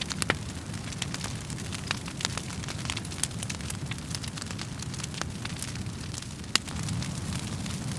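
Wood fire crackling in a fireplace: irregular sharp pops and snaps over a steady low rumble of flames, with one louder pop near the end.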